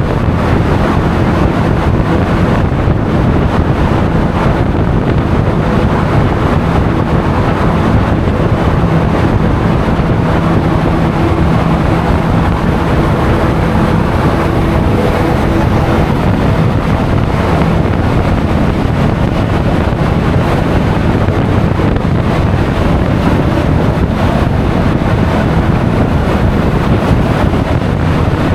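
Steady wind rushing over an action camera's microphone while riding a Honda Forza 350 scooter, with the scooter's engine droning steadily underneath.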